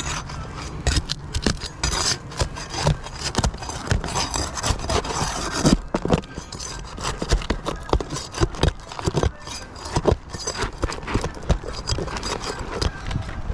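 Roofing nails being pried out from under shingles: a run of irregular sharp knocks and taps with scraping and rubbing between them.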